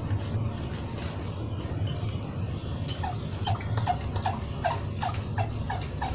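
A bird calling in a quick series of short, upward-hooked notes, about three a second, starting about halfway through, over a steady low rumble with scattered sharp clicks.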